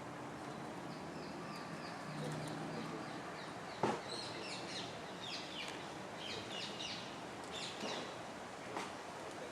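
Small birds chirping in short, quick, falling high notes, on and off throughout, over outdoor background noise, with a sharp knock about four seconds in.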